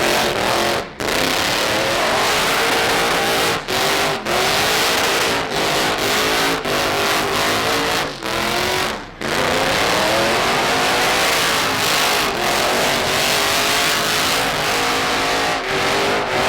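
Diesel truck engines revving hard over and over, their pitch rising and falling, with several abrupt breaks that sound like edit cuts.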